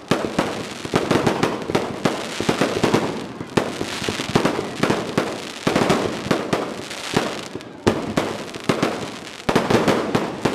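Aerial fireworks bursting in quick succession, booms and crackles overlapping several times a second, each with a short echoing tail.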